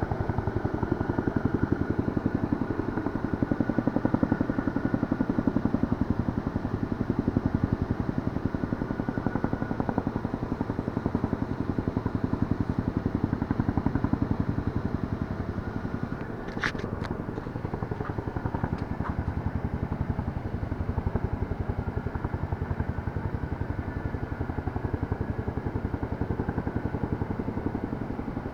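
Kawasaki Z1000 motorcycle's inline-four engine running steadily, with a few sharp clicks a little past halfway.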